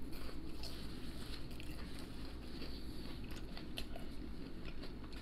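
A person chewing a mouthful of crispy battered fried seafood close to the microphone, with scattered small crunches and crackles.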